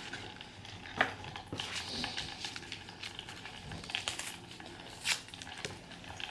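Scattered light clicks and crinkles from handling a disposable coffee cup and its cardboard sleeve, with a sharper click about a second in and another about five seconds in.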